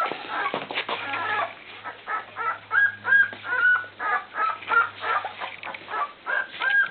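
Bull Terrier puppies whining and squeaking, a rapid run of short high-pitched cries, some bending up and down in pitch.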